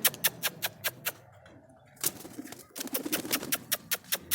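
Domestic pigeons cooing softly in a loft, among a rapid run of sharp clicks, about six a second, that pauses for about a second midway and then resumes.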